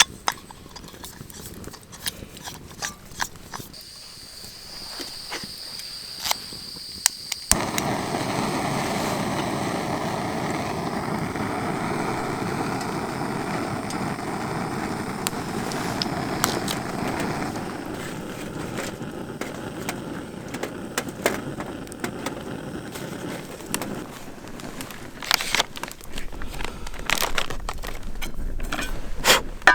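Campfire crackling, with scattered sharp pops. A steady rushing noise starts abruptly about a quarter of the way in and fades out over the next fifteen seconds or so.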